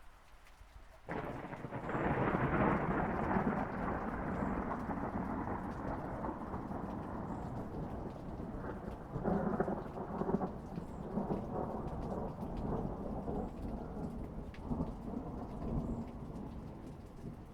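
Thunder breaks suddenly about a second in and rolls on in a long rumble that swells again partway through and slowly fades near the end, over falling rain.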